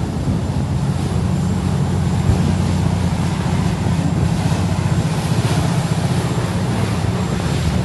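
A fishing boat's engine running steadily under way: a continuous low, fast-pulsing drone, with the hiss of wind and rushing water over it.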